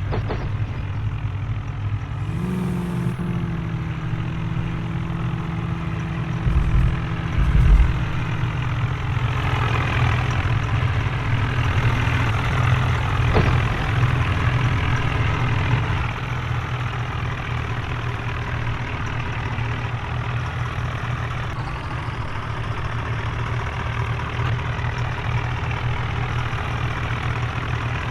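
Tractor diesel engines running hard, as in a tractor tug-of-war pull. The engine note rises about two seconds in, and the sound grows fuller and louder from about nine to sixteen seconds before settling back to a steady run.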